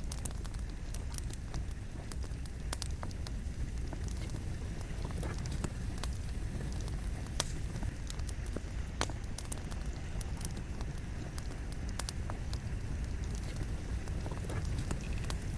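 Wood fire burning, with irregular sharp crackles and pops from the logs over a steady low rumble of the flames.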